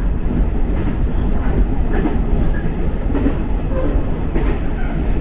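Jōshin Dentetsu electric local train running between stations, heard from inside the passenger car: a steady, loud rumble of wheels on the rails.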